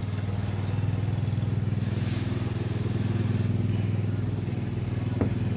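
A short hiss of mass airflow sensor cleaner sprayed from an aerosol can, lasting under two seconds, over a steady low hum. A cricket chirps about twice a second throughout, and there is a single click near the end.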